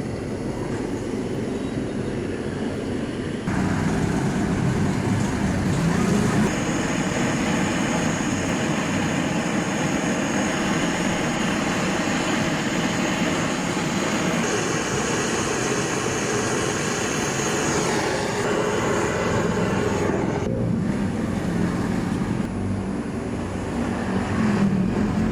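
Gas torch burning with a steady hiss while the filler neck is soldered onto a radiator. It gets louder about three seconds in, drops back about twenty seconds in, and rises again near the end.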